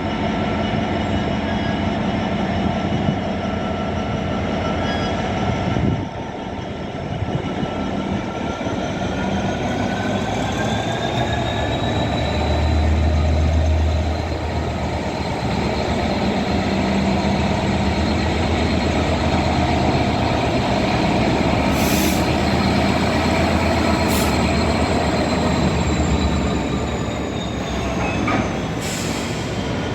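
Class 66 diesel-electric freight locomotive 66515, with its two-stroke V12 diesel engine, running under power. The engine's tone rises about eight seconds in, the low rumble is heaviest around twelve to fourteen seconds in, and the pitch falls back near the end. There are a couple of brief high clicks or squeals.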